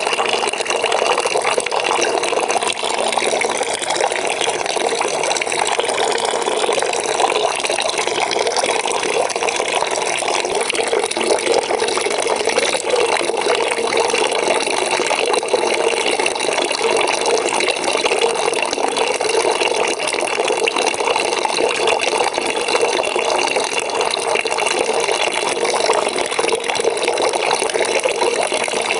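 Water running steadily from a tap into a bucket, a continuous splashing fill.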